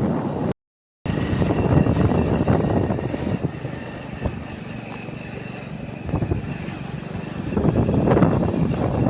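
Vehicle running on the road with wind buffeting the microphone, a rough gusting rush that swells and fades; the sound cuts out completely for about half a second near the start.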